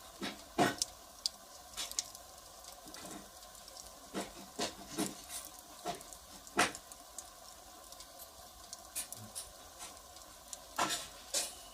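Firewood fire crackling: irregular sharp pops and snaps over a steady low hiss, with the strongest pops about half a second in, near the middle and near the end.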